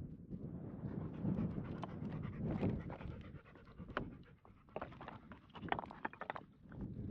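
Labrador panting rapidly, out of breath after a hill climb, with wind rumbling on the microphone.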